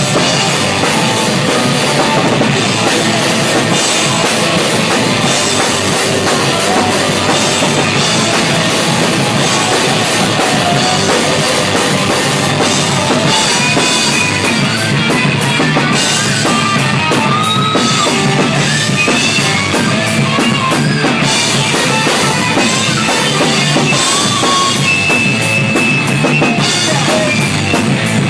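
Rock band playing at full volume in rehearsal, picked up raw from the drummer's position so the drum kit is loudest, with guitar underneath and higher melodic lines coming in over the second half.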